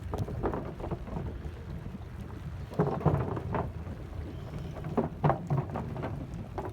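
Wind buffeting the microphone over the rumble of a bicycle riding across a wooden boardwalk, with clusters of sharp knocks and clatter as the tyres bump over the planks about three and five seconds in.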